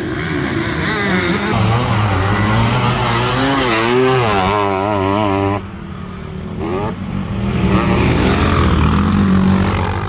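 Motocross bike engines revving, the pitch rising and falling quickly as the throttle is worked, with abrupt jumps in the sound at about a second and a half and again past five seconds.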